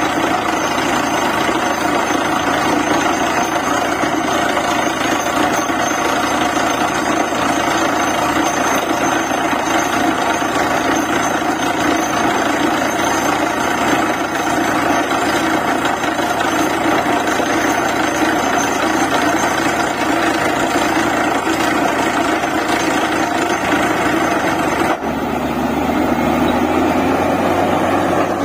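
Borewell drilling rig running at work: engine and machinery noise with a dense, rapid knocking of the drill. About 25 seconds in it changes suddenly to a smoother engine sound with steady low tones.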